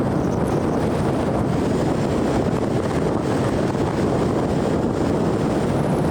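Steady, loud rushing of thunderstorm wind buffeting the microphone.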